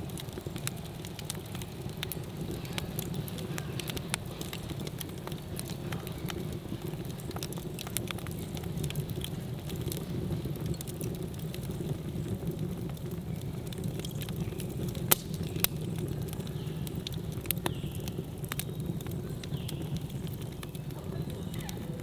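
Wood campfire burning with a low steady roar and frequent sharp crackles and pops, two of them louder in the second half.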